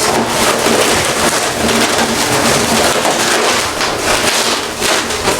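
Latex modelling balloons rubbing and squeaking against each other as a bubble is twisted into place, a dense crackly rustle throughout.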